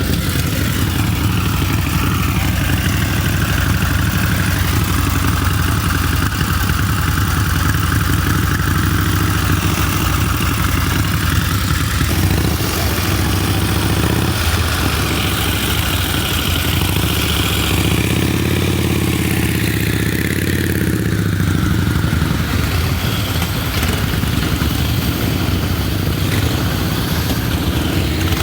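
Antique motorcycle engine running steadily, its pitch rising and falling around two-thirds of the way through.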